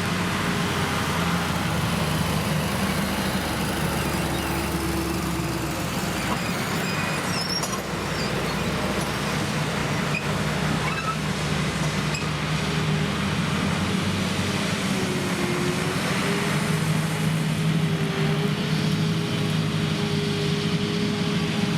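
Krone Big X 1100 self-propelled forage harvester working under full load through standing triticale: its V12 diesel engine runs steadily along with the noise of the chopping gear. A higher tone in the sound wavers slightly in the second half.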